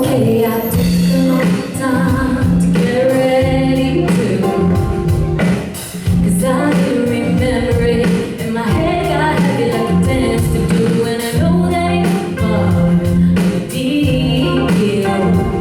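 Live band music with singing: sung vocals over keyboard and a steady beat.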